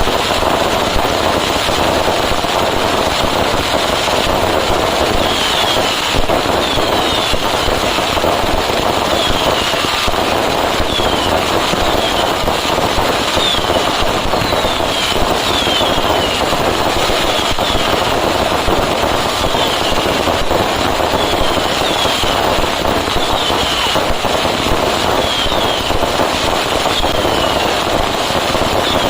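Fireworks: a dense, continuous barrage of firecrackers whose bangs run together into a steady loud rattle, with short falling whistles about every second or two.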